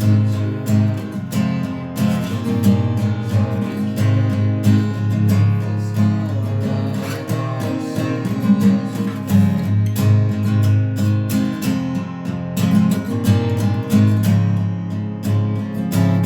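Music: an acoustic guitar strumming chords steadily.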